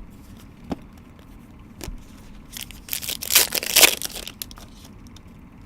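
Foil wrapper of a trading-card pack being torn open: a crinkling rip lasting about a second and a half, with a couple of light clicks before it.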